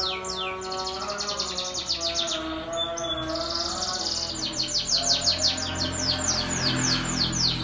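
Domestic canary singing a long, fast song of rapid high trills, quick repeated downward-sweeping notes with a short buzzing roll about three seconds in. Lower held tones sound underneath.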